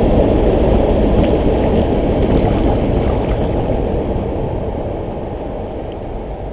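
Freight train of tank cars rumbling across a railway bridge overhead, with a few faint clicks from the wheels. The noise fades steadily as the last cars clear the bridge.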